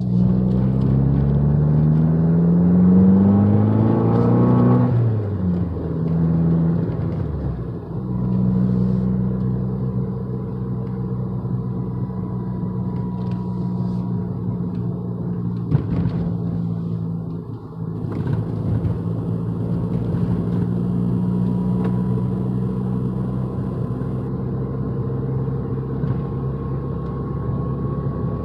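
A 2015 Fiat 500 Abarth's 1.4-litre turbocharged four-cylinder, heard from inside the cabin, revs climb steadily under acceleration for about five seconds, then the pitch drops sharply as the throttle comes off. From about eight seconds the engine holds a steady drone while cruising.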